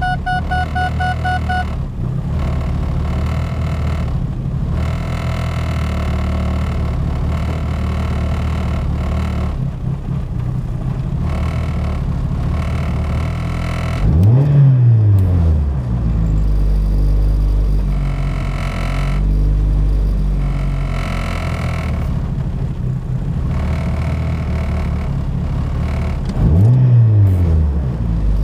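Turbocharged Ford Focus engine running with an uneven idle, revved up and back down twice, about halfway through and near the end. The owner suspects a misfire from the plug wires or the cylinder 2 fuel injector, since a new coil pack has not cured it. A pulsing electronic tone sounds for the first two seconds.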